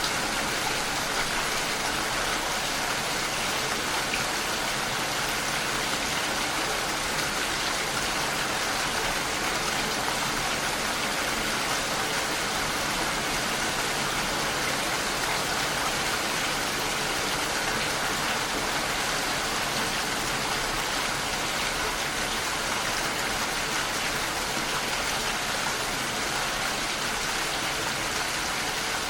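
Steady, even rainfall: a constant hiss of rain without breaks or separate loud drops.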